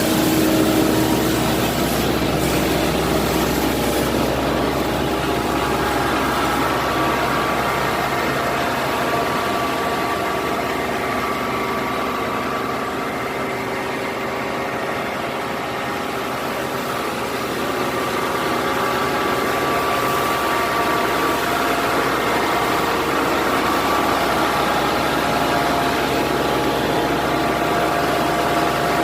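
The diesel engine of a large XCMG XE2000 excavator running steadily. It eases off slightly in the middle and then picks up again.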